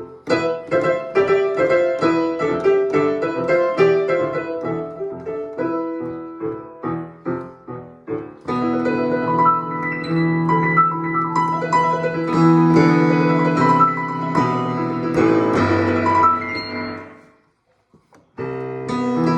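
Piano playing: a run of separate struck notes, then from about eight seconds in, held chords. The playing stops for about a second near the end and then starts again.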